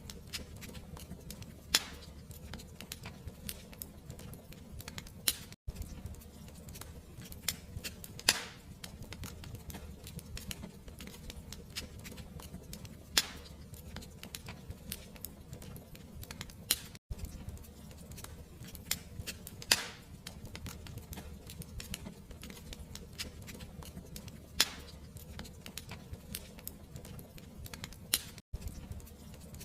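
Wood fire crackling: a dense run of small ticks and a louder pop every few seconds over a low rumble, cutting out for an instant three times.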